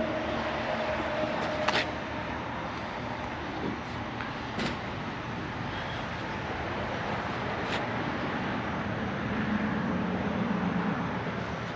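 Steady outdoor traffic noise, with three sharp clicks a few seconds apart and a low hum swelling briefly near the end.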